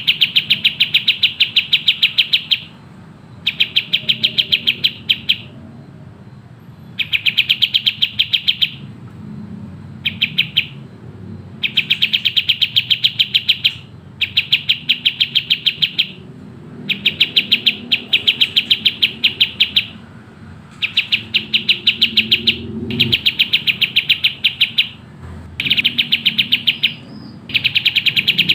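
Kapas tembak songbird singing its fast, tightly packed song: rapid high chirps at about eight to ten notes a second, in bursts of one to three seconds separated by short pauses.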